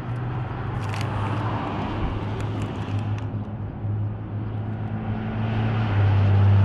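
A motor vehicle's engine running with a steady low hum over road-like noise, growing louder about six seconds in.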